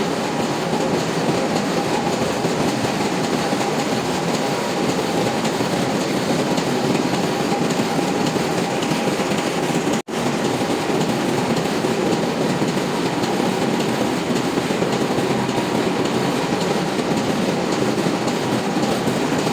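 Loud, steady din of a ship's engine room machinery running, with a faint steady whine over it. It cuts out for an instant about halfway through, then carries on unchanged.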